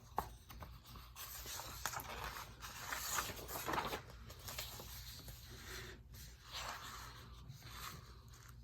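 Faint, irregular rustling and scraping with small clicks, like something being handled.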